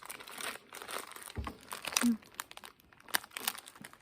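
Candy packaging crinkling and rustling in irregular crackles while being handled, with a dull thump about a second and a half in.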